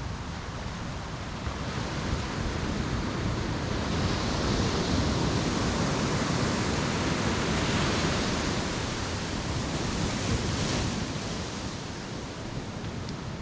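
Ocean waves washing onto a beach: one surge of surf builds about two seconds in, is loudest through the middle, and draws back near the end.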